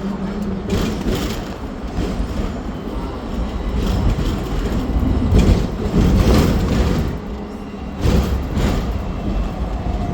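Hong Kong double-decker tram running on its street rails: a steady rumble with clattering from the wheels and car body, growing louder in the middle.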